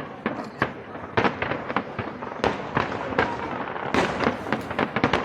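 Fireworks going off: a quick, irregular string of sharp bangs and crackles, thickest in the last second or so.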